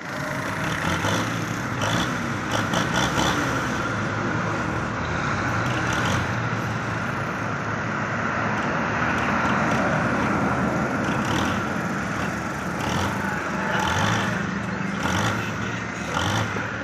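Russian-made tractor's diesel engine running hard under heavy load, straining to haul a stuck, fully loaded trolley, with a few short knocks.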